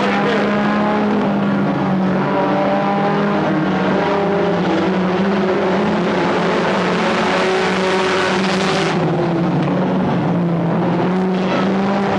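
Stock car engines running hard on the track, a loud continuous drone whose pitch dips and rises slightly as cars pass.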